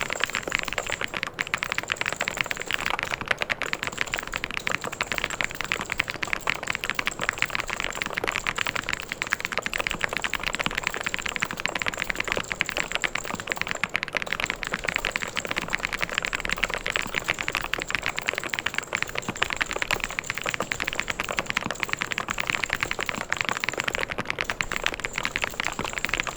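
Mechanical keyboard being typed on fast and continuously, a dense run of clacking keystrokes with no pauses.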